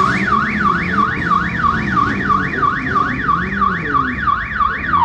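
Electronic alarm or siren tone, a rapid yelp sweeping up and down about three times a second, that stops abruptly at the very end, over a low rumble.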